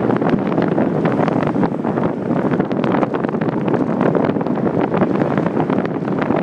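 Wind buffeting a handlebar-mounted iPhone 4 microphone on a moving bicycle: a loud, steady rushing noise broken by frequent small knocks and rattles.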